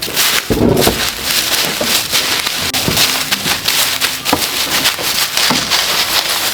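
Dense rustling and crackling with many small sharp clicks and crunches, steady throughout with a few louder knocks.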